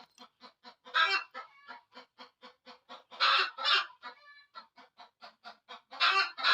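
Domestic hen clucking: a quick run of short clucks, about four a second, broken by louder, longer squawks about a second in, twice around three seconds in, and twice near the end.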